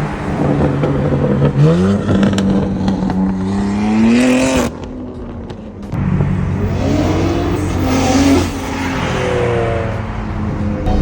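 Car engines revving and accelerating, the engine note climbing in pitch. One rev rises and then cuts off abruptly near the middle, followed by more rising revs later on.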